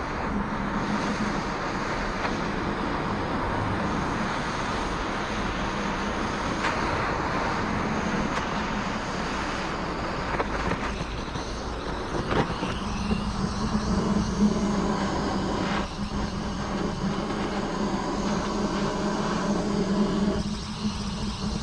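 A power tool running steadily while boring into a wooden log, with a constant motor hum under the noise of the cutting.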